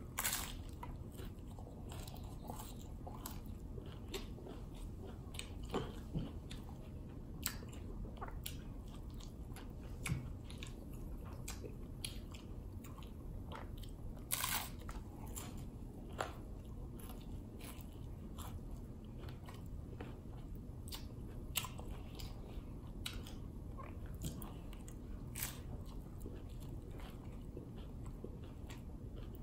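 Bites and chewing of a Fiery Doritos Locos hard-shell taco, the crisp shell crunching in irregular, scattered cracks, with one louder crunch about halfway through.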